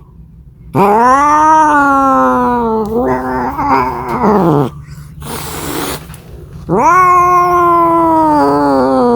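Domestic cat caterwauling: two long drawn-out yowls, each rising in pitch and then sliding slowly down, with a brief hissy noise between them.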